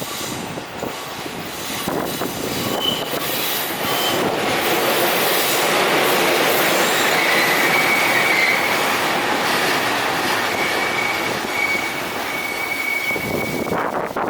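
E233-8000 series electric train running past, its running noise building over the first few seconds. From about halfway on, its wheels give a thin, steady high squeal.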